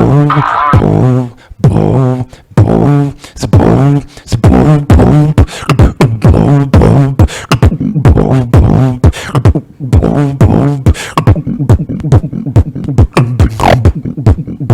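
Beatboxing: mouth-made kick and snare hits in a steady beat that quickens into dense, rapid hits in the second half, with a rising sweep near the end. About a second in, a different pitched musical passage cuts off.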